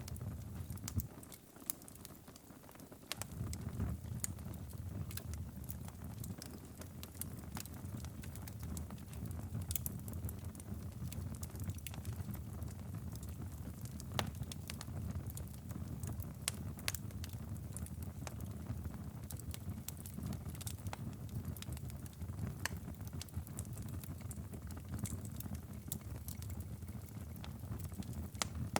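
Wood fire crackling in a fireplace: a steady low rumble of flames with frequent sharp pops and snaps. The rumble drops away briefly about two seconds in.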